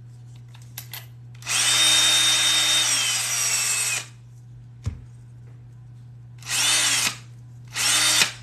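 Electric power drill running in three bursts, enlarging the rivet holes in leather: one run of about two and a half seconds whose pitch drops toward the end as it bites, then two short spin-up-and-down blips. A single sharp click falls between the runs.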